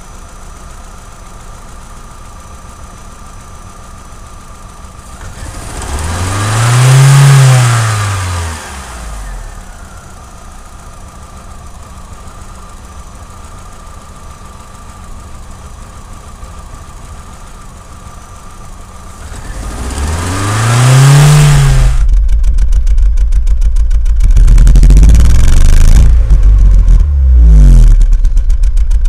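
Opel Vectra B's Z16XE 1.6 16V four-cylinder engine idling with a cylinder 4 misfire, revved up and let fall back twice. A loud, uneven low rumble takes over for the last several seconds.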